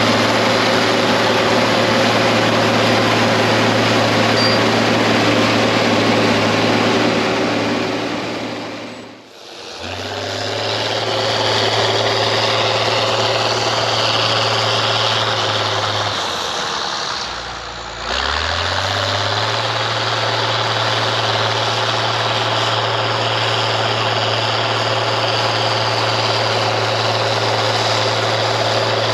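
The DT466 inline-six diesel of an International TD15C crawler dozer runs steadily while it works. The sound drops away briefly about a third of the way in. Just past halfway the engine note sags lower, then climbs back up.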